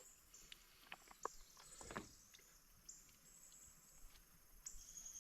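Faint insects trilling at a high pitch in separate spells that start every second or so, with a few soft clicks and rustles of handling in the middle.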